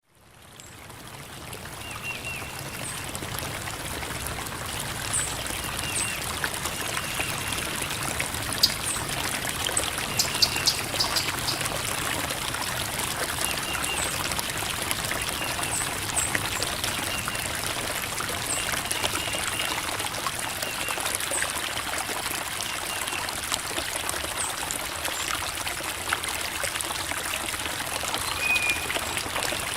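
Creek water babbling and trickling over rocks, fading in over the first couple of seconds and then flowing steadily, with a few faint high-pitched peeps over the water.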